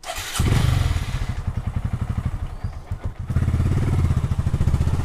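Hero Glamour single-cylinder motorcycle engine running with a fast, steady putter, stronger from about three seconds in.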